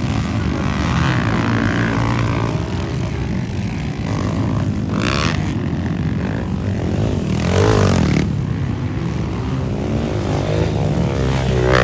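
Motocross dirt bikes racing, their engines buzzing and revving, with one bike passing louder a little before the end.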